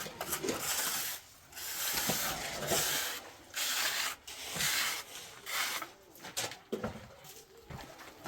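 Rough scraping strokes of a hand tool working cement mortar, repeated about once a second with short pauses between them.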